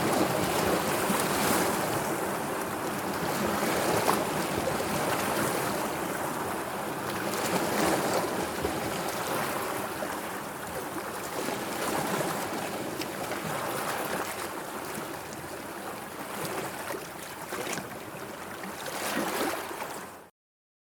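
Sea water washing and lapping, a steady rush that swells and eases every few seconds, with a few small splashes. It cuts off abruptly to silence just before the end.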